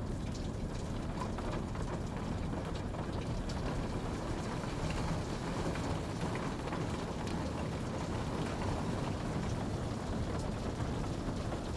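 Steady rain falling, a dense even hiss with scattered drops ticking on a surface.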